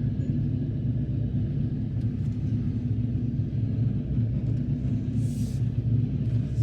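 LS-swapped V8 engine running steadily at low speed with a deep, even rumble. A brief high hiss comes about five seconds in.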